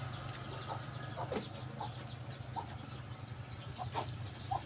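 Birds chirping in the background: short, high chirps repeated several times a second. A low steady hum runs underneath, and there are a few soft knocks.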